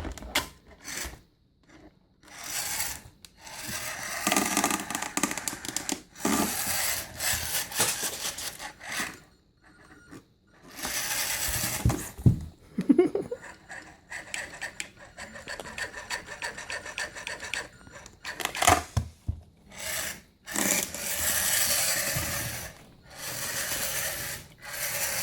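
Toy remote-control monster truck running in repeated spurts of a second or two, its small electric motor whirring and wheels churning through plastic balls, which rustle and rattle; the truck is stuck among the balls.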